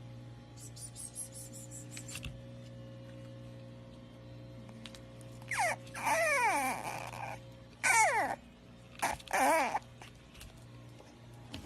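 French bulldog whining: three pitched cries about halfway through, each sliding down in pitch, the first and longest dropping furthest. A low steady hum runs underneath.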